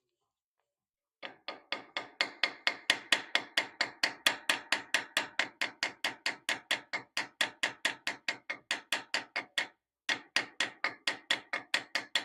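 Small hammer tapping rapidly on metal, about five light, ringing blows a second, with one brief pause about ten seconds in before the tapping resumes.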